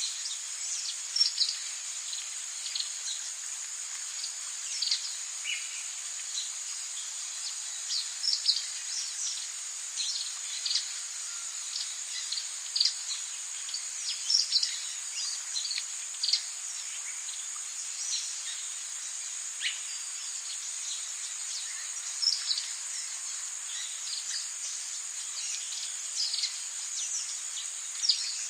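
Rainforest ambience: a steady high-pitched drone of insects, with frequent short bird chirps and calls scattered over it.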